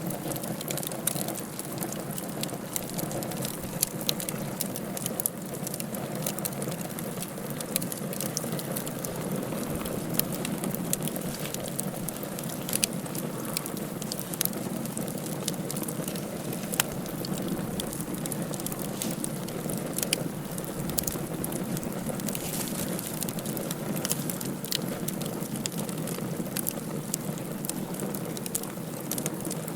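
Wood fire burning in a fireplace, crackling with frequent irregular sharp pops over a steady hiss.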